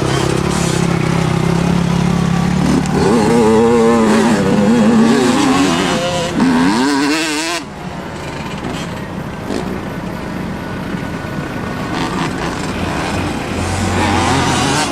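Motocross dirt bike engines running, the pitch rising and falling as the throttle is worked, then dropping abruptly to a lower level a little past the middle.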